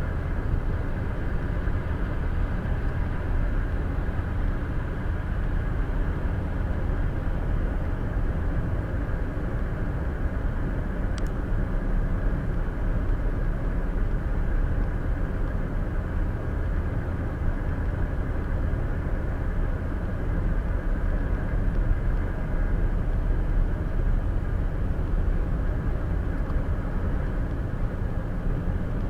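Steady road noise inside a car driving at highway speed: tyre and engine noise as heard through the cabin.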